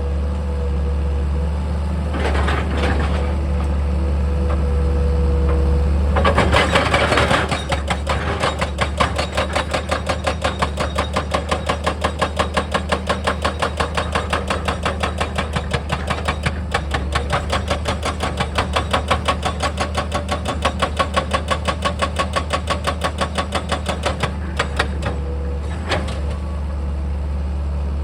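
Heavy diesel machine's engine running steadily. From about eight seconds in, a fast, even hammering of roughly three to four strokes a second goes on for about sixteen seconds, then stops.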